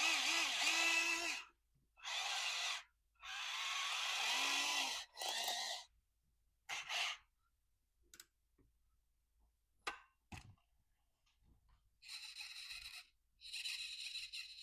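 Small electric motors of an RC tracked truck whirring in short bursts on a bench test, about seven runs of a second or so each, with a few sharp clicks around the middle.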